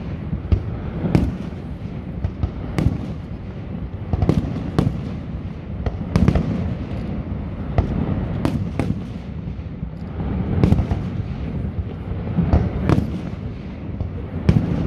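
Fireworks display: aerial shells bursting in an irregular run of sharp bangs, about one a second with some in quick pairs, over a steady low rumble.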